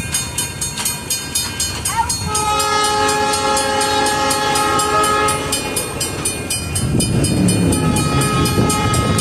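A passing train, its wheels clicking rapidly over the rail joints, then the train horn sounding one long chord about two seconds in for roughly three seconds, with a fainter horn tone returning near the end over a low rumble.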